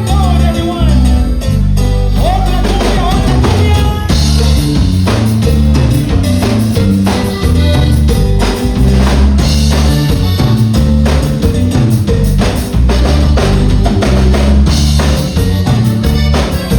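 Tejano band playing live: heavy bass and drum kit driving a steady beat, with a sung line in the first few seconds before the drums and cymbals fill out.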